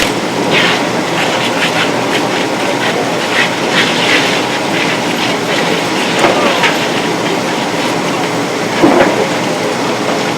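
CH-47 Chinook tandem-rotor helicopter running, a steady loud noise with an uneven clatter running through it.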